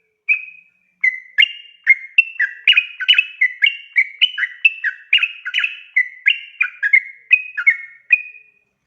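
Sooty-headed bulbul singing: a single whistled note, then a long, fast run of bubbly whistled phrases, about three a second, switching back and forth between a higher and a lower pitch.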